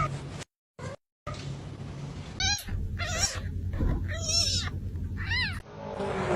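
A domestic cat meowing several times, short calls that rise and fall in pitch.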